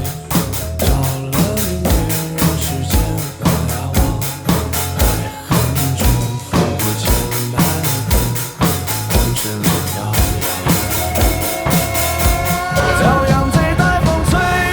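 Drum kit played along to a rock backing track, with a regular beat of kick-drum and snare hits over bass and guitar. A higher melody line comes in about twelve seconds in.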